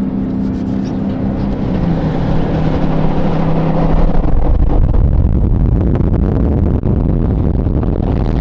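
Car engine running with a steady hum, turning into a heavier, rougher low rumble about four seconds in.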